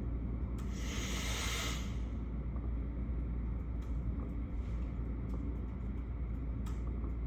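Rain ambience heard from a window over a steady low rumble, with faint scattered ticks. A brief swell of hiss starts about a second in and lasts about a second and a half.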